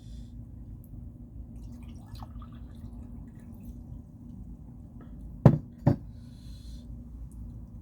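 Two loud, sharp knocks about half a second apart, close to the microphone, then a brief hiss. They sound like eating-table sounds over a steady low hum in a small room.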